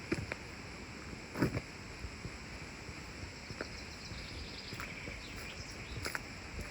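Quiet outdoor ambience: a steady rush of background noise with a few scattered soft knocks, and faint bird chirps in the middle.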